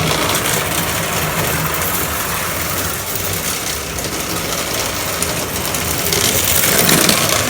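1940s General 4-4-0 toy train running a loop around its track: a steady motor whir and wheel clatter, growing a little louder near the end.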